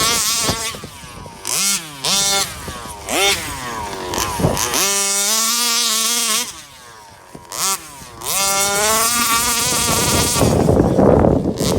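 34cc Rovan two-stroke engine of a 1/5-scale Baja RC car revving hard and dropping back again and again as the car is driven, its pitch sweeping up and down with short lulls between bursts. Near the end the sound turns rougher and noisier.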